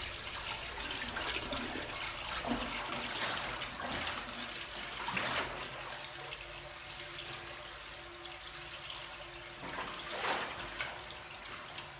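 Water flushing and swirling through a large toilet bowl full of pink slime, swelling and easing several times as it drains.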